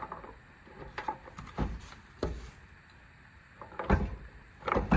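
Metal clinks and knocks of a socket and wrench being fitted to a bolt: about six separate sharp clicks spread out, with the loudest cluster near the end.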